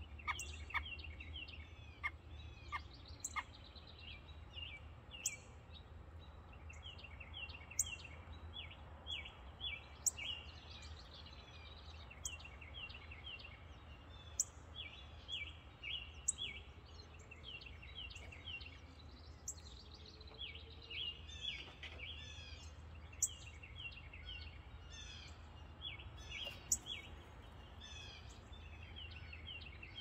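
Birds chirping in quick, short, repeated notes, with a few falling whistled phrases in the second half, over a steady low hum.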